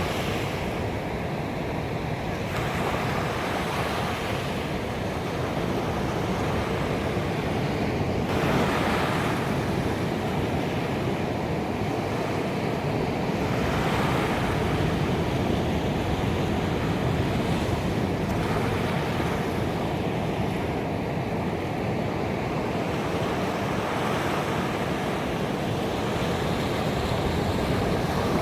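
Ocean waves breaking on a beach: a continuous wash of surf, with a fresh wave surging in every few seconds.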